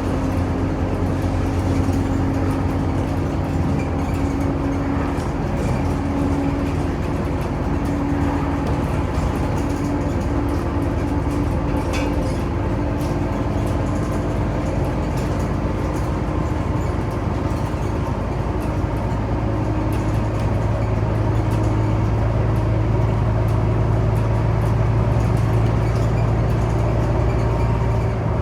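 Scania Omnicity city bus running along the road, heard from on board: a steady engine drone with road noise. The low engine note grows stronger and a little louder about two-thirds of the way through.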